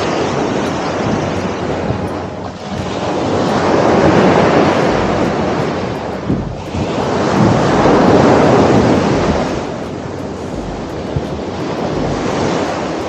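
Sea waves washing onto the shore, swelling and fading in slow surges about every four seconds, with wind buffeting the microphone.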